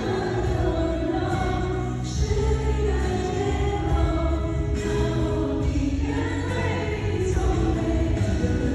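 Live pop concert music: a band playing with sung vocals and a heavy steady bass.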